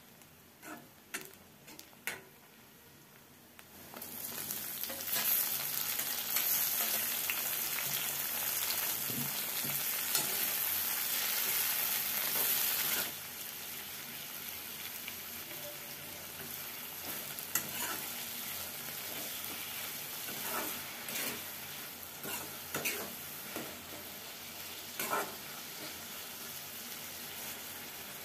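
Onions frying in oil in a metal kadai, with a few sharp clinks of stirring; about four seconds in a loud sizzle starts suddenly as tomato slices go into the hot oil. About thirteen seconds in it eases to a steady frying sizzle, with clinks and scrapes as the tomatoes and onions are stirred.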